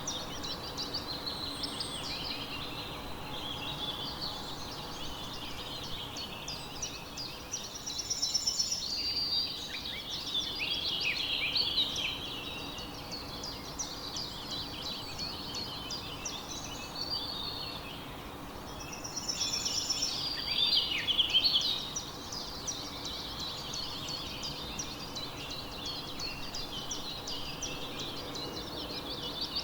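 Many small birds chirping and singing at once in a dense, continuous chorus of overlapping chirps and trills. There are two louder spells of quick repeated notes, about a third of the way in and again about two-thirds in.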